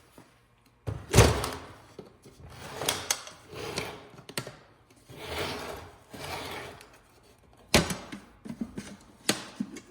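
Several thunks and knocks, the loudest about a second in and two more near the end, with rustling and shuffling between them, as things are handled and moved about on a workbench.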